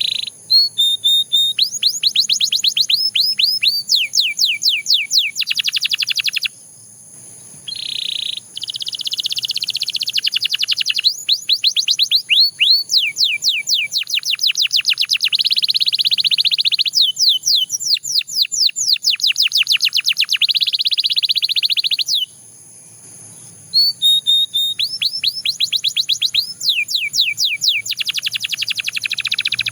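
Domestic canary singing: long trilled phrases of rapidly repeated, sweeping notes. The song breaks off briefly about six seconds in and again a few seconds before the end.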